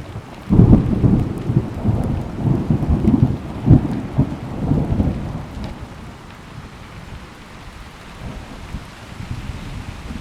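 Steady rain with a clap of thunder about half a second in, rumbling and crackling for about five seconds before dying away under the rain.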